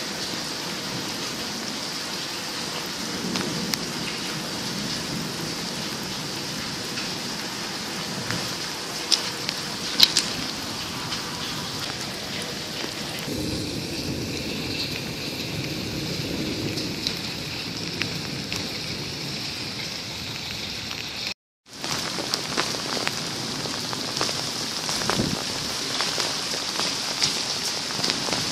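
Steady rain falling, with a few sharp taps now and then. The sound breaks off for a moment about two-thirds of the way through.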